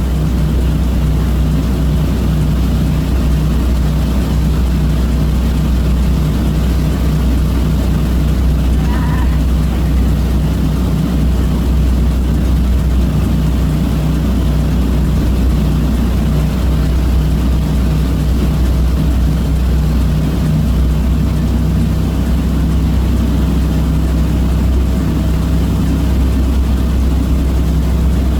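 Passenger catamaran's engines running steadily under way, a constant low drone.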